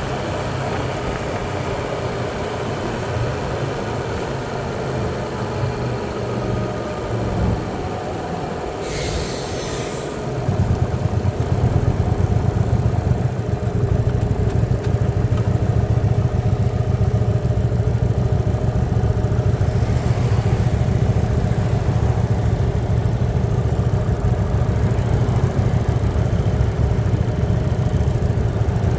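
Hyosung Aquila 125's V-twin engine running with a steady low drone. About nine seconds in there is a brief hiss, and then the engine note gets louder and holds steady.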